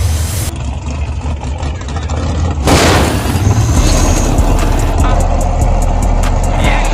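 A car engine running, with a strong steady low rumble; the sound changes abruptly twice, as between spliced clips.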